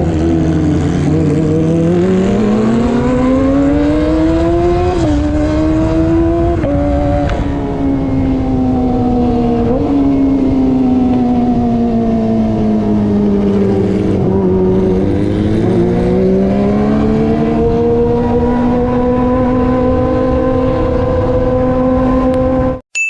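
Kawasaki ZX-25R's 250 cc inline-four running loud through an aftermarket racing exhaust while riding. The engine note climbs for several seconds, with brief jumps in pitch, sinks slowly, then rises again and holds steady.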